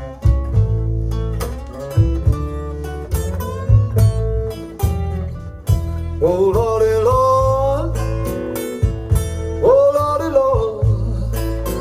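Acoustic blues recording played from a vinyl record through a hi-fi amplifier: plucked guitars over a steady bass, with bent lead notes sliding in pitch about halfway through and again near the end.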